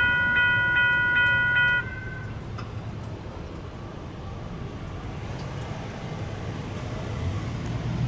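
US&S electronic crossing bell (E-Bell) at a railroad crossing signal ringing in a steady rapid pattern, about two and a half strokes a second, then cutting off about two seconds in. After it stops there is a steady low rumble of rail and road traffic that grows louder near the end.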